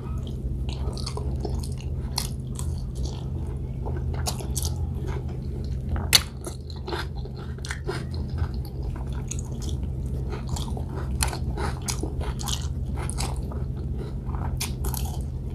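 A person chewing food, with many soft, irregular wet clicks and smacks from the mouth and one sharper click about six seconds in. A steady low hum runs underneath.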